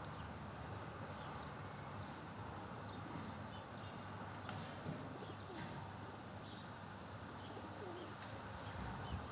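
Wild birds calling: scattered short, high chirps over a steady low background.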